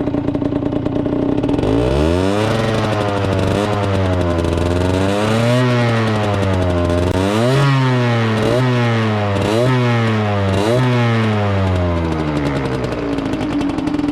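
Derbi Senda 50cc single-cylinder two-stroke motorbike engine, warmed up, idling and then revved repeatedly, its pitch rising and falling about once a second before it settles back to idle near the end.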